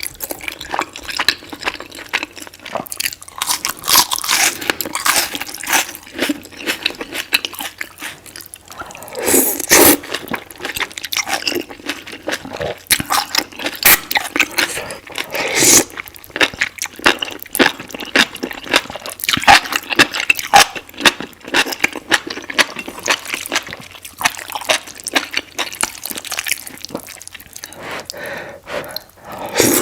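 Close-miked eating: a run of wet smacks, slurps and chewing clicks, as of someone eating saucy noodles.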